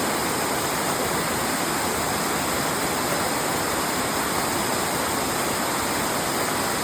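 Steady rush of falling water from Elephant Falls, an even roar with no breaks.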